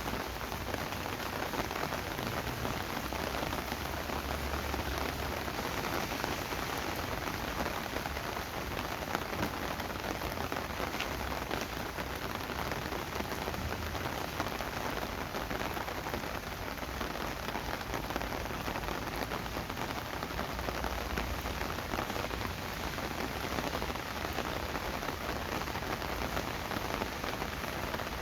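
Steady rain falling, an even hiss of drops that keeps on without a break.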